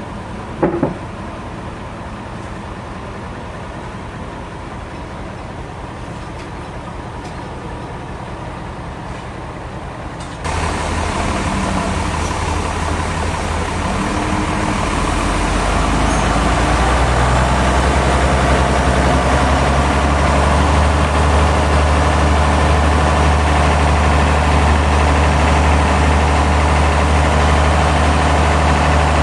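A heavy engine running steadily, with a couple of sharp clicks near the start. About ten seconds in the sound suddenly gets louder, and a deeper, stronger engine note builds over the next few seconds, then holds steady.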